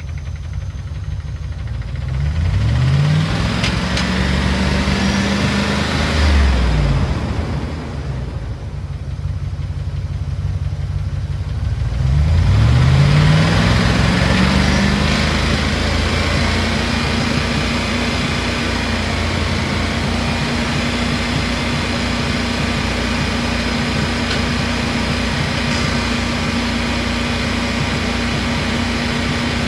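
P38 Range Rover engine revved up from idle, held briefly and let back down, then revved again a few seconds later and held at a steady raised speed. The engine is being run with Rislone in the oil to free a sticking valve or lifter.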